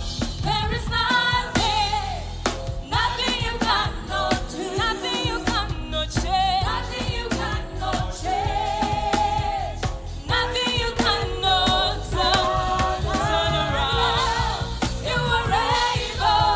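Live gospel worship music: singers with vibrato-laden lead and backing vocals over a band with bass and drums.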